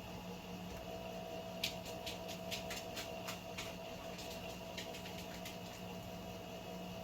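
Steady hum of a small electric motor running, with a quick run of about a dozen light clicks in the middle.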